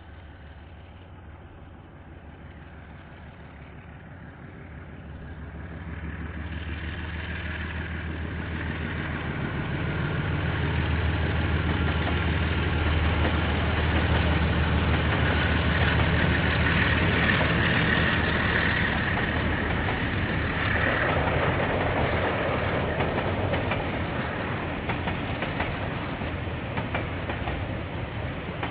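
A KiwiRail diesel freight train approaching and passing. The locomotive's engine hum swells to a loud, steady drone about five seconds in, and the clatter of wagons rolling over the rails follows and eases a little near the end.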